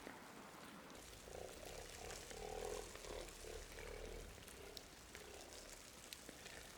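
A cat's soft, low, croaking vocal sound lasting about three seconds, with faint scattered clicks around it.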